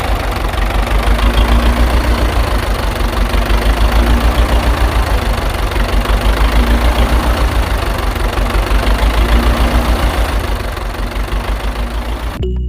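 Tractor engine idling with a steady, fast low chugging, easing slightly near the end.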